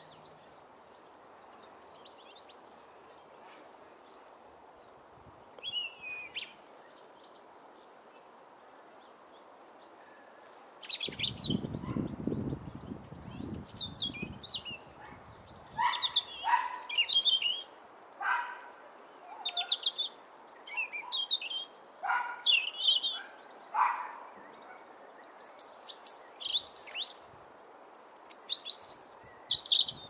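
Small garden birds calling and chirping: one short call about a fifth of the way in, then from a third of the way in a run of many high chirps and calls. A low rumbling sound runs underneath for a few seconds just after the chirping begins.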